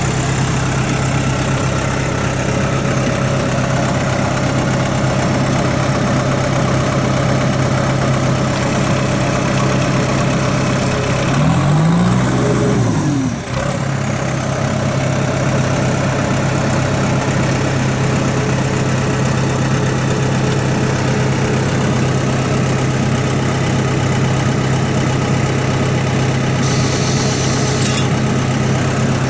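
New Holland T4050 tractor's diesel engine idling steadily. About twelve seconds in it is revved up briefly and drops back to idle.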